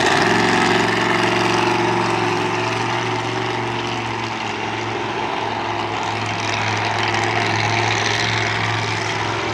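Monster truck engine running steadily at an even speed, without big revs.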